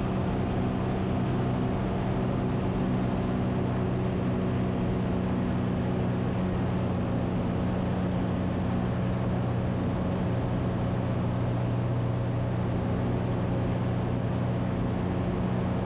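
Ikarus C42 light aircraft's engine and propeller droning steadily in cruise, heard from the cockpit.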